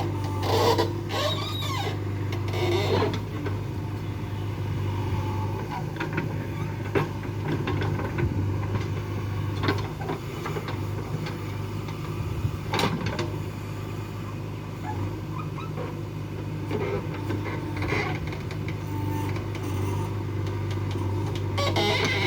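A heavy diesel engine runs steadily, with scattered sharp knocks, the loudest about halfway through.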